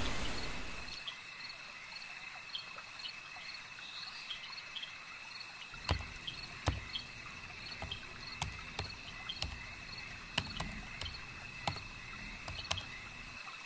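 Crickets chirring, a steady high trill with small repeated chirps over it. From about six seconds in, laptop keyboard keys click in an irregular run of typing.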